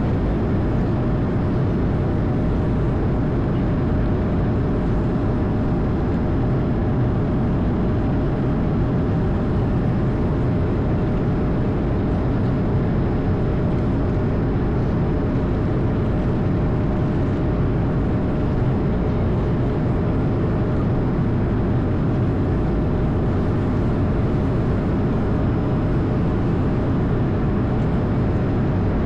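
Steady noise of an Airbus A220's Pratt & Whitney PW1500G geared turbofans and the airflow, heard from inside the aircraft, with a faint steady hum running through it.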